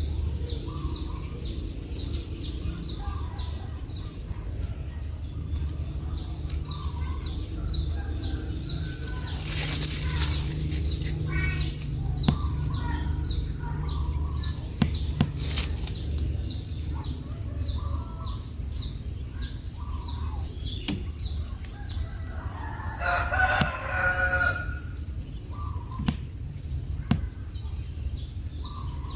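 Outdoor bird and insect sounds: a high chirp repeats about twice a second throughout over a low steady hum. A brief rustle comes about ten seconds in, then a few sharp clicks, and a short bird call, rooster-like, sounds about two-thirds of the way through.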